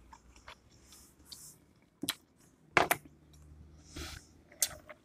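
Close-up chewing of a mouthful of soft food: quiet wet mouth sounds with a few sharp lip smacks and clicks.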